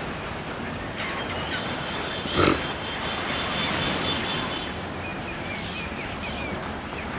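Steady wash of sea surf and wind, with small birds chirping in short rising and falling notes in the second half. A brief loud sound about two and a half seconds in stands out above the surf.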